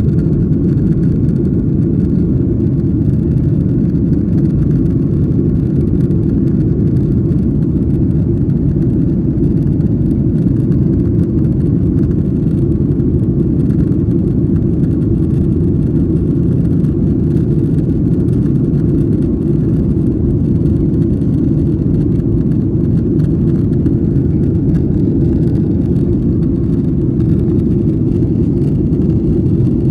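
Steady engine and airflow noise inside a jet airliner's cabin in flight: a dense, even rumble, mostly low, that does not change.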